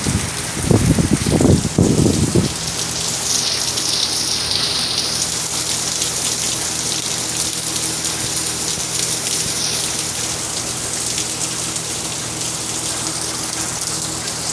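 Pounding hurricane rain with strong gusting wind. Wind buffets the microphone in low gusts for the first couple of seconds, then gives way to a steady, dense hiss of driving rain.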